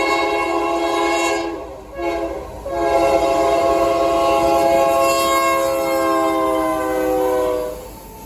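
Diesel locomotive's multi-chime air horn sounding the end of a grade-crossing signal. A long blast ends about a second in, then comes a short blast, then a long blast whose chord slides slightly lower as the locomotive passes, cutting off near the end.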